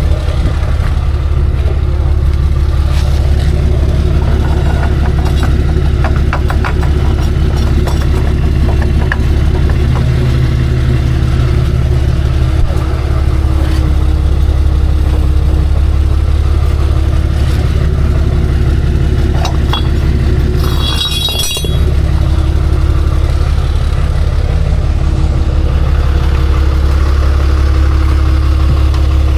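Vehicle engine idling steadily with a deep, even rumble. About two-thirds of the way through there is a brief high hiss.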